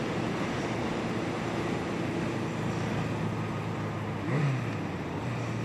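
Yamaha XJ750 Seca's air-cooled inline-four engine running steadily while riding, with a constant rush of wind and road noise on the microphone; a short swell about four seconds in.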